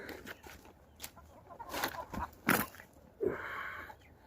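Chickens clucking in a scatter of short calls.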